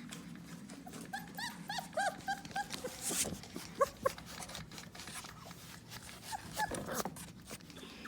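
Four-week-old puppies whining in short, high-pitched squeaks. A quick run of cries comes a second or two in, and a few more come around four and seven seconds in.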